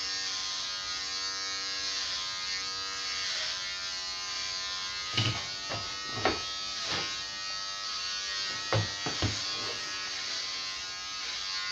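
Electric clippers running with a steady buzz, with a handful of short knocks from about five to nine seconds in.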